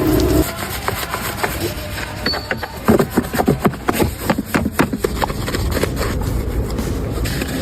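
A quick, irregular run of clicks and knocks from hand-tool work on car parts, densest in the middle, after a humming sound that stops just after the start.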